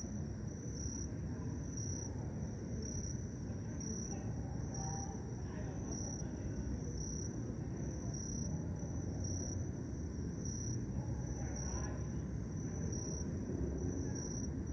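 Cricket chirping in an even rhythm, about two high chirps a second, over a steady low background rumble.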